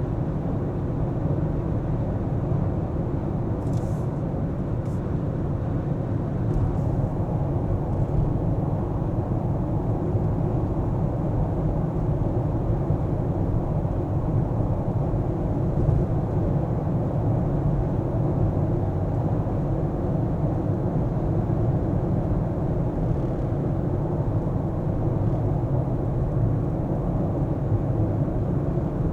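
Car driving along city streets: steady low road and engine rumble that never breaks, with a few faint ticks about four to seven seconds in.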